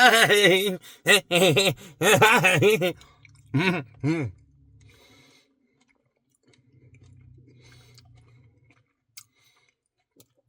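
A man's wordless voice rising and falling in pitch for about three seconds, with two short vocal sounds just after. Then it is mostly quiet, with a faint low hum and a few faint clicks near the end.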